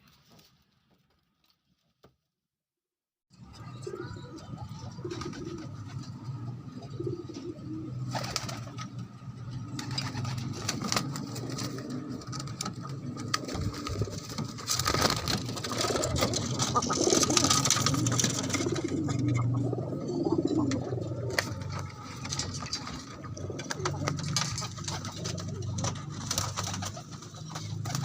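Doves cooing, a low repeated coo, starting about three seconds in after near silence and going on with some clicks and rustling.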